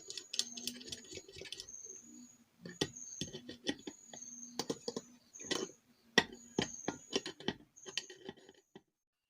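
Irregular metallic clicks and taps of small hand tools and parts, from tightening the thermostat's connection onto the electric kettle's heating element. It stops abruptly near the end.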